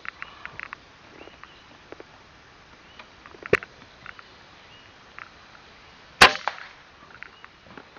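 PCP air rifle firing: two sharp cracks, one about three and a half seconds in and a louder one with a short ringing tail a little over two and a half seconds later. A few faint short chirps sound near the start.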